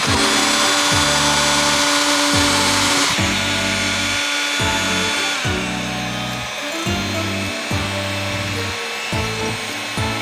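Background music with a steady beat, over which a power tool runs as a loud whirring hiss that cuts out about three seconds in and fades away a couple of seconds later.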